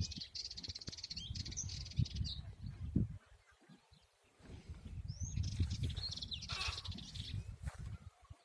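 European goldfinch singing a rapid, twittering song in two spells, at the start and again about five seconds in, over a louder low rumble on the microphone.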